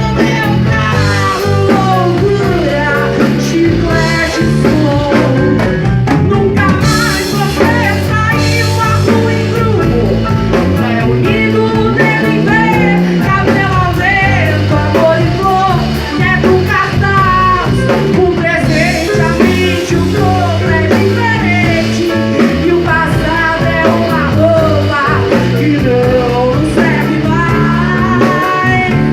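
A woman singing live with a band backing her, the voice carrying a wavering melody over steady bass and drums.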